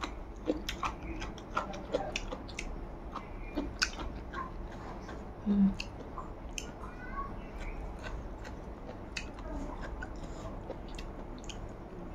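Close-up eating sounds of a person chewing rice and soibum eromba (fermented bamboo shoot chutney) eaten by hand: wet chewing with frequent sharp mouth clicks and smacks. About halfway through comes a short low hum, the loudest moment.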